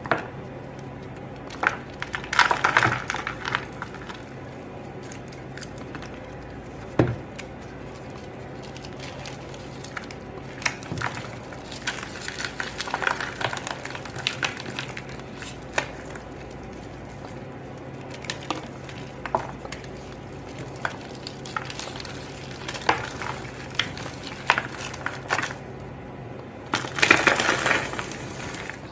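Compressed cornstarch crunching and crumbling in clusters of crisp crackles, about two seconds in, through the middle and near the end, with scattered single crunches between, over a steady low hum.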